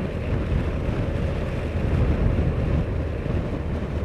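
Honda CBF motorcycle cruising at a steady speed, its engine hum mixed with wind rushing over the microphone.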